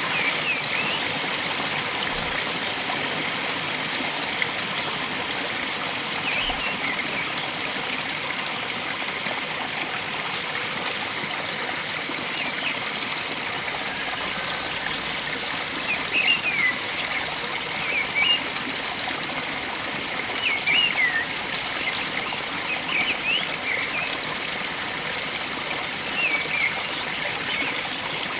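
Steady rush of flowing water, with a bird giving short chirping phrases every few seconds, more often in the second half.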